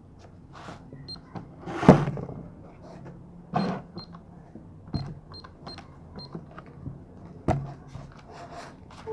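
Short, high electronic beeps, about eight of them at irregular spacing, the 'ti, ti, ti' noise made by the grandfather's device, mixed with a few knocks from slime being handled at the table.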